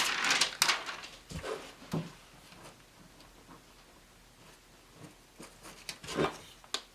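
Light handling noises from the pieces of a broken cookie being picked up and fitted on the work surface: a brief rustle at the start, a couple of soft taps, then a few more short rustles and a click near the end.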